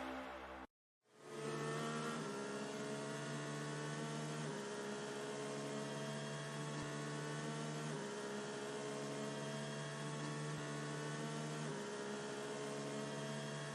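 Quiet background music of sustained synthesizer chords that change every three to four seconds, after a brief silence about a second in.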